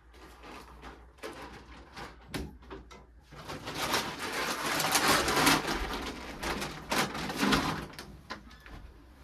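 Domestic chickens making soft cooing calls in their coop, with a loud stretch of noise and a few knocks from about three to eight seconds in.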